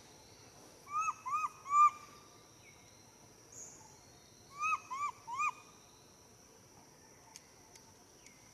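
A bird calling twice, each time a quick run of three short clear notes that rise and fall, over a steady high-pitched whine in the background.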